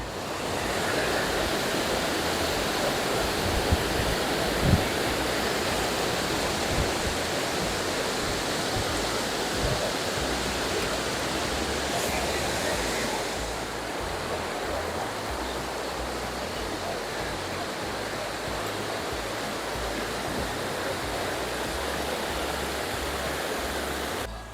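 Steady rushing roar of water falling at the Grawa waterfall, a dense even noise that eases slightly about halfway through.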